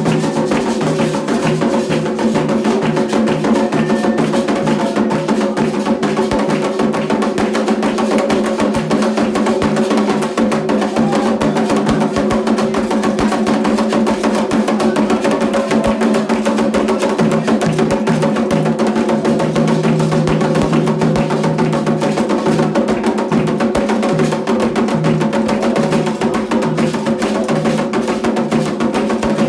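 Candomblé ceremonial drumming: hand drums played in a fast, continuous rhythm, with a sharp wood-block-like clicking pattern over them.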